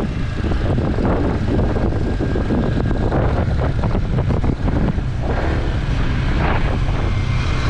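Motorbike running along on the move, with wind rumbling on the microphone.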